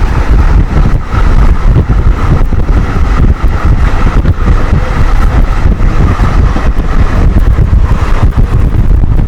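Heavy wind buffeting the microphone on a fast-running express train, over the train's steady running rumble.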